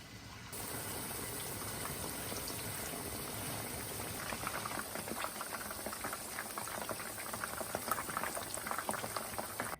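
Breaded chicken thighs frying in hot oil: a steady sizzle, with crackling and popping that grows busier from about four seconds in.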